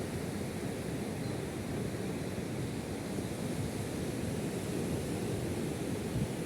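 Steady rushing outdoor noise of wind and surf, heaviest in the low range.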